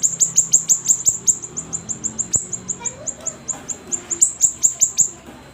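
Siri-siri bird singing a rapid, chattering series of sharp, high, downward-slurred notes, about five or six a second.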